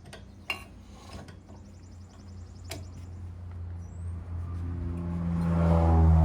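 Metal hand tools clink a few times, then a low engine drone builds steadily louder over the last couple of seconds.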